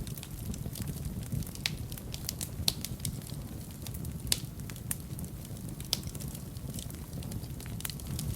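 Fire burning in a fireplace: a steady low rumble of the flames with frequent irregular sharp crackles and pops, a few of them louder.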